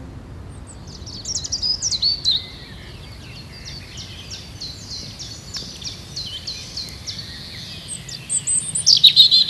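Birds singing: short high chirps and whistles, a run of evenly repeated notes through the middle, and louder bursts of song near the start and again near the end, over a low steady background hum.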